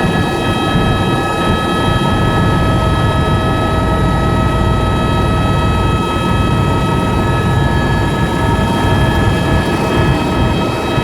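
Tour helicopter in flight: a steady, loud drone of rotor and engine noise with a constant high whine over it.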